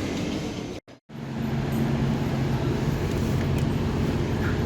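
Steady low mechanical hum with a few held low tones, broken by a brief dropout about a second in.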